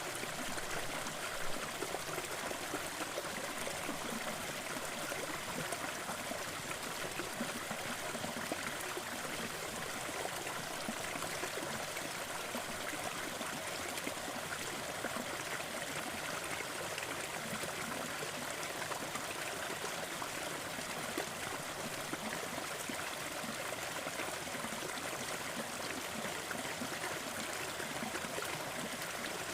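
Gentle waterfall, water falling and splashing in a steady, even rush with no letup.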